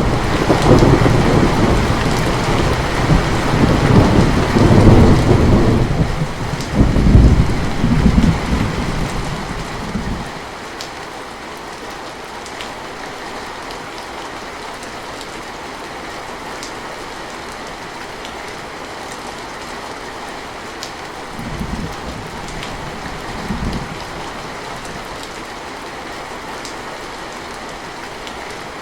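Steady rain hissing down with faint drop ticks, under a loud rolling thunder rumble that builds, peaks and fades away over the first ten seconds. Two short, fainter rumbles of thunder come about two-thirds of the way through.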